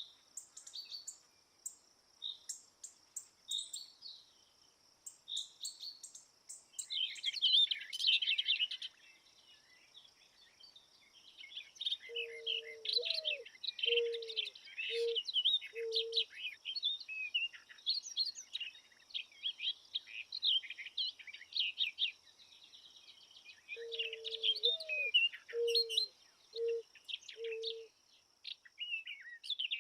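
Songbirds chirping and trilling in busy bursts, with a lower cooing call of about five notes heard twice. A steady high hiss runs underneath.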